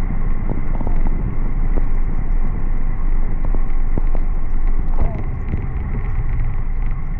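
Steady, loud wind rumble and road noise on the microphone of a rider on the move.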